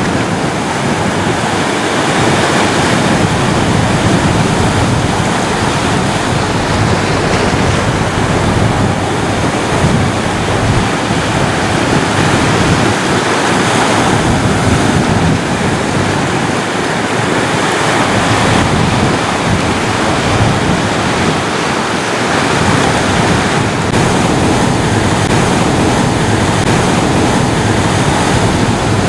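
Ocean waves washing on the shore in a steady, continuous rush of surf, rising and falling gently with no distinct single crash.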